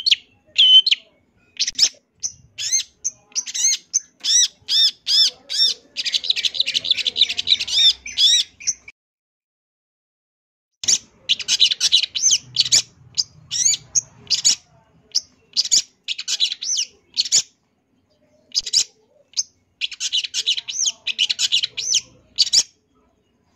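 Long-tailed shrike (cendet) singing a varied song full of mimicked notes: phrases of sharp, repeated high notes and fast chattering runs, with a pause of about two seconds a little before the middle.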